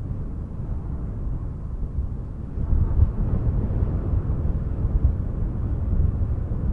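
Wind blowing, a low steady rush that swells and eases, a little stronger about three seconds in.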